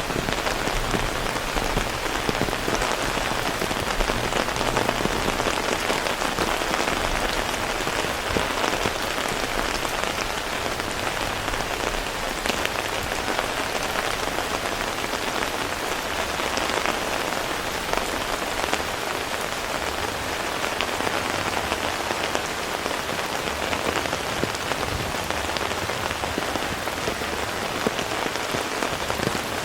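Heavy rain falling steadily, a dense even patter of many small drops hitting surfaces.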